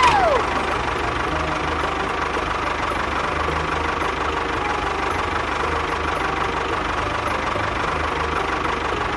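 A small engine running steadily at idle with a pulsing low rumble. Right at the start there is a short falling whistle-like glide.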